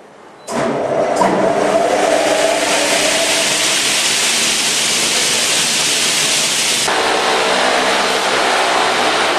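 A CNC double-head saw for window and door profiles starts its circular saw blades and cuts through a profile. A loud hiss comes in suddenly over a steady whine, and the whine rises in pitch at first. About seven seconds in, the cutting hiss stops abruptly and the blade motors keep running.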